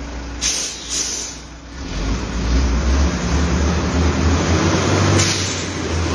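FAW truck's diesel engine pulling uphill under load, its low running note growing louder about two seconds in. Short bursts of hiss come near the start and again near the end.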